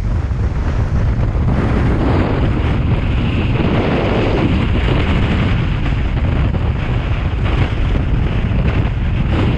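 Tropical-storm wind buffeting the microphone in a loud, steady rumble, over heavy ocean surf.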